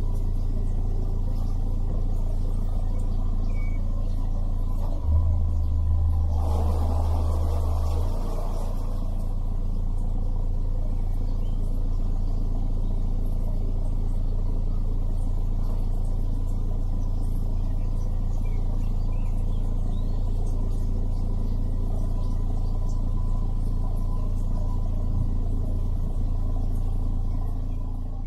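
Narrowboat engine running steadily at low revs, a deep even drone that grows louder for about three seconds around five seconds in.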